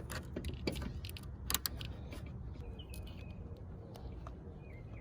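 Light metallic clinks and clicks of a wrench pinching a hose clamp as a small coolant hose is worked back onto a radiator, over a steady low hum.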